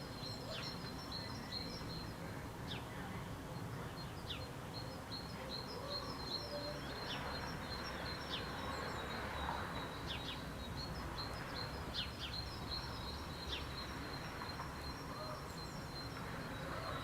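Small birds chirping: a fast, steady string of short high chirps, with quick falling whistled notes scattered through it, over a steady low rumble.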